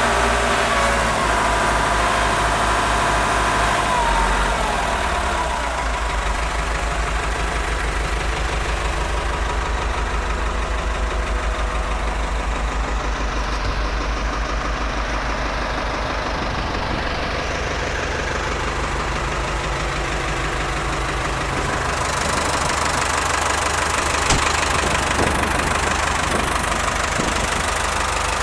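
Ford 5610 tractor's four-cylinder diesel engine running, its revs dropping over the first few seconds and then idling steadily. It gets a little louder about 22 seconds in.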